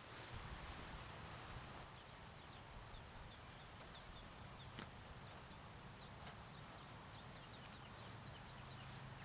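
Quiet outdoor ambience with a series of faint, short high chirps and a single soft click about five seconds in.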